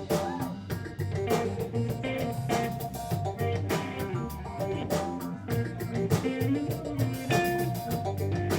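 A jam band playing: guitar lines over a steady drum kit beat.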